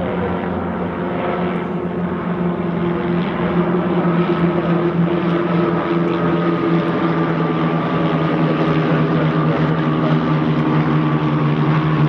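Propeller aircraft engine droning steadily overhead, growing a little louder, its pitch drifting slowly down.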